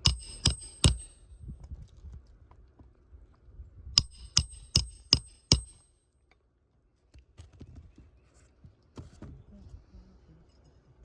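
Hammer driving roofing nails into a shingle roof: three quick ringing strikes, then after a pause a run of five more about 0.4 s apart. Between them are faint scuffing and handling sounds on the shingles.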